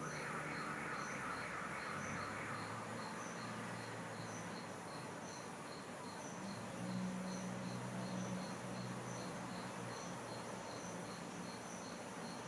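Crickets chirping steadily, about three short high chirps a second.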